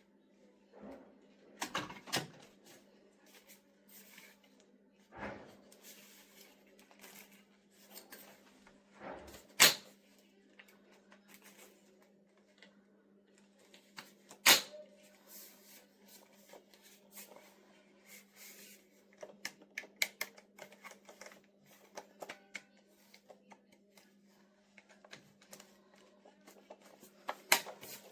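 Scattered clicks and knocks of objects being handled, the loudest about 10 seconds and 14.5 seconds in, over a faint steady hum.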